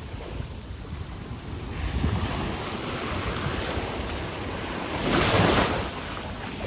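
Sea waves washing onto a beach, with wind buffeting the microphone. The loudest wash comes about five seconds in and lasts under a second.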